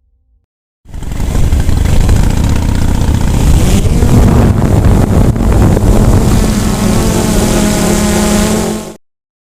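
Motorcycle engine running under heavy wind rush on the microphone, starting and stopping abruptly.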